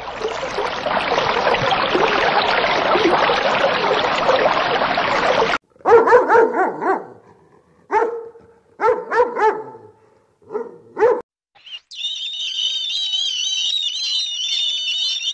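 A steady, dense rushing noise that cuts off suddenly after about five and a half seconds. Then a dog barks, several short barks spread over about five seconds. After a brief silence, a flock of seabirds calls with high, wavering cries.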